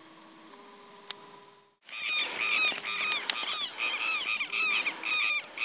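Birds calling loudly after a faint stretch and a brief drop-out about two seconds in: many rapid, harsh, overlapping calls a second, which run on without a break.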